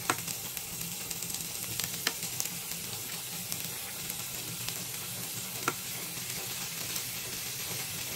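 Raw chicken pieces sizzling steadily in a hot pan of sautéed ginger, onion and garlic as they are laid in with tongs. A few sharp clicks stand out over the sizzle, one right at the start, one about two seconds in and one near six seconds.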